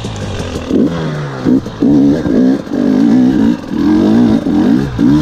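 KTM 300 XC-W two-stroke dirt bike engine revving in repeated bursts, its pitch rising and dipping as the throttle is opened and closed on the trail.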